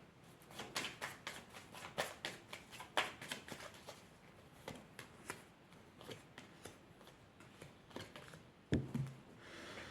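Oracle cards being shuffled and handled: a quick, irregular run of light card clicks and snaps, with a soft thump near the end.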